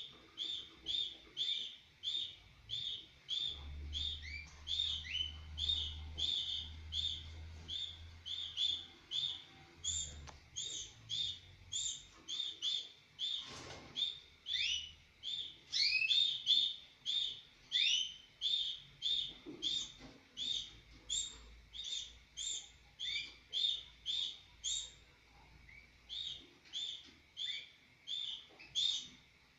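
Mosaic canaries chirping: a steady, even run of short high chirps at about two a second, with now and then a short rising tweet.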